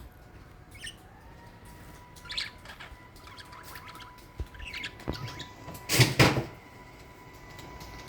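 Budgerigars chirping in short, scattered high calls, with a brief louder burst about six seconds in.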